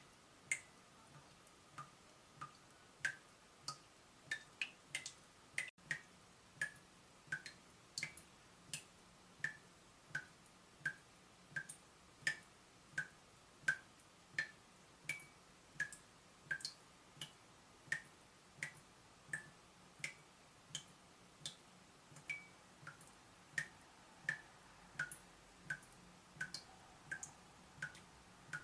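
A leaking tap dripping: single water drops plinking about twice a second in a slightly uneven rhythm, each a short, bright drip.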